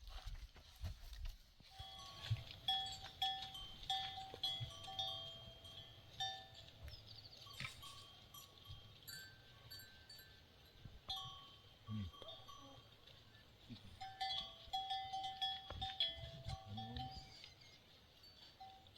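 Livestock neck bells clinking repeatedly at a few fixed pitches as a herd moves, with a couple of short animal calls near the middle and near the end.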